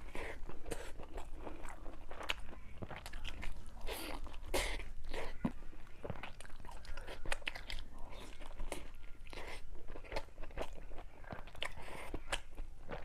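A person eating close to the microphone: continual wet chewing with many small crunching clicks at an irregular pace.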